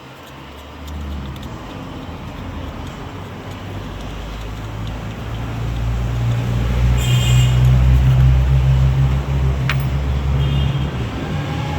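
Motor vehicle engine running with a low rumble that starts about a second in and grows louder over several seconds before easing slightly, with a brief high squeal near the middle and a sharp click.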